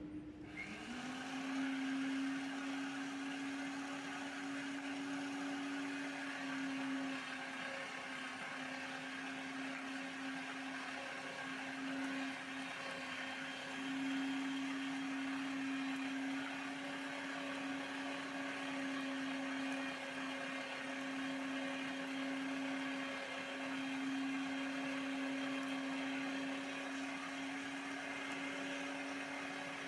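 Electric meat grinder motor starting up, rising in pitch over about the first second, then running steadily as it minces mutton with tail fat.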